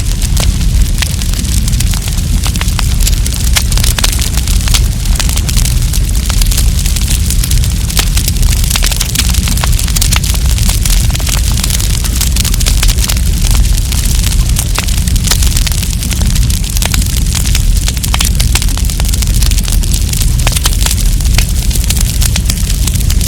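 Wood campfire crackling, with many sharp snaps and pops coming thick and irregular over a steady low rumble.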